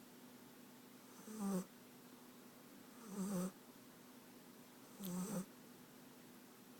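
American Staffordshire terrier puppy snoring: three short snores, about two seconds apart.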